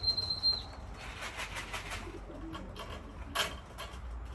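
Racing pigeons cooing softly at the loft, with scattered taps and clicks and one sharper click about three and a half seconds in. A high steady beep stops just after the start.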